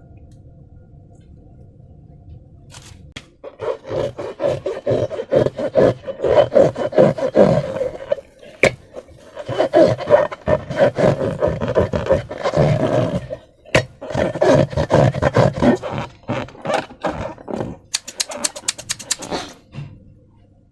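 Slime being squeezed and kneaded by hand: rapid, sticky squelching and crackling that starts about three seconds in and comes in three long bouts with short breaks between.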